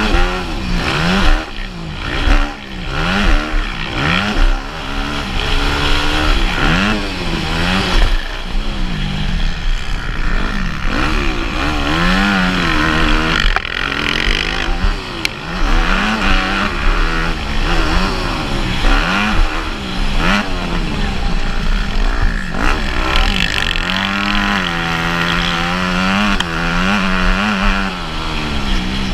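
Motocross bike engine revving hard and repeatedly, its pitch climbing and dropping every second or two as the throttle opens and closes.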